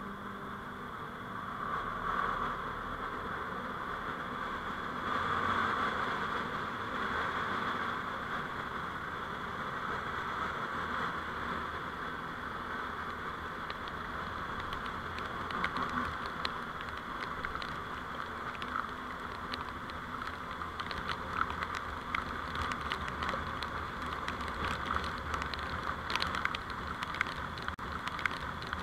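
Vehicle driving noise picked up by a dashcam: a steady hum of engine and road. From about halfway on, scattered short sharp ticks come in and grow more frequent toward the end.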